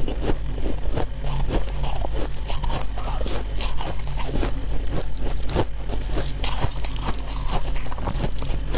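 Crunching and chewing of freezer frost ice: dense, irregular crunches, many a second, with a steady low hum underneath.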